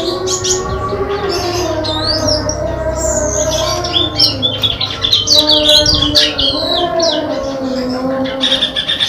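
Small caged songbirds, a cemperling and a Lombok white-eye set against each other, chirping and twittering in fast, high, sliding notes, busiest in the middle. A steady low drone of several tones slowly wavering in pitch runs underneath.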